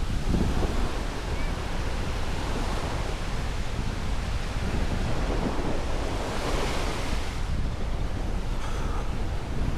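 Ocean surf breaking and washing up a sandy beach, with wind rumbling on the microphone. One wash swells louder and hissier about two-thirds of the way through.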